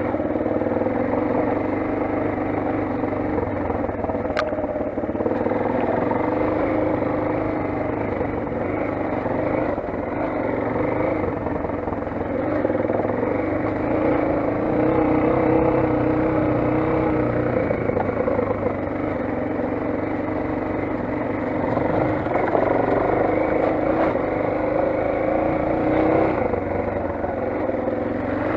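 Motoland XR 250 enduro motorcycle's single-cylinder four-stroke engine running steadily under way, its pitch drifting a little up and down with the throttle, over a steady rush of noise.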